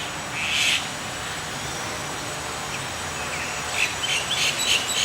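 Small bird chirping: one short high call about half a second in, then a quick run of short high chirps near the end, over a steady hiss.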